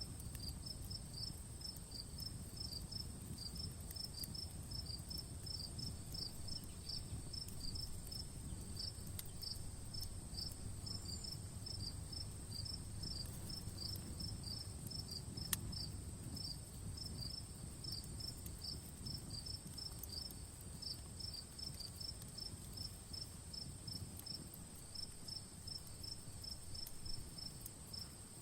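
Insects chirping in a steady, even rhythm over a continuous high insect drone, with a campfire crackling softly underneath and one sharper pop about halfway.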